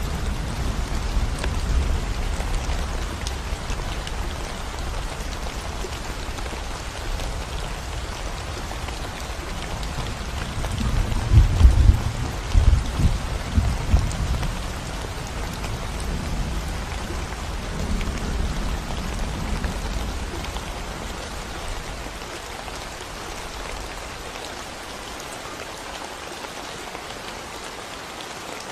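Steady rain falling on a concrete road and surrounding plants. A low rumble underneath swells to its loudest in a few pulses around the middle, then fades out well before the end, leaving only the rain.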